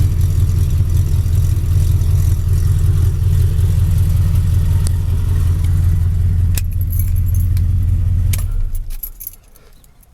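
Truck's swapped-in 2001 5.3-litre Vortec V8 idling steadily through MagnaFlow mufflers, then switched off about eight and a half seconds in, dying away within half a second. A few sharp clicks come around the shutdown.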